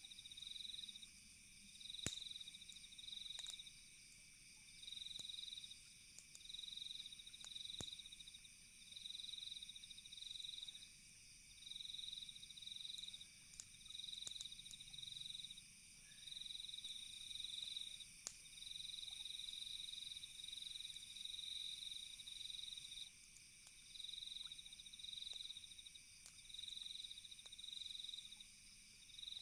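Night insect chorus of crickets: a chirping trill repeats about once a second over a steady high drone. A few sharp crackles from a campfire break in now and then. It is faint overall.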